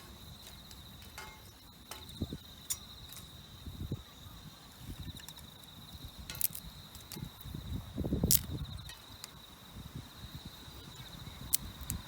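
An insect trilling steadily at one high pitch, with scattered sharp clicks and low thuds. The loudest click and thud come about eight seconds in.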